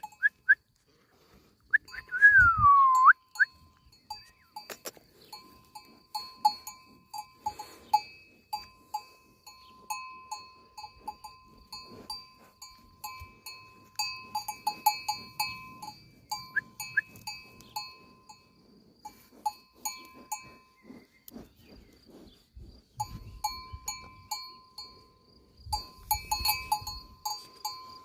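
Bells worn by grazing livestock clanking irregularly: many small metallic clinks at the same few pitches, thicker in some stretches than others. About two seconds in, a short falling whistle-like note sounds once.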